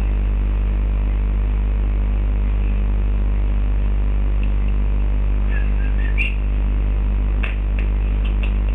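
Steady low electrical hum with a buzz of even overtones, a few faint clicks and a short chirp coming through over it in the second half.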